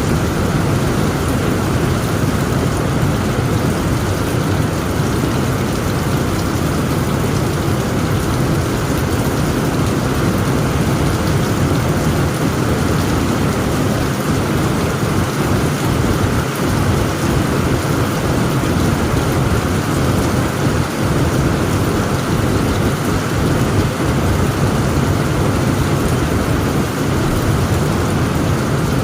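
Heavy rain drumming steadily on a tent roof, with a continuous low rumble of thunder underneath.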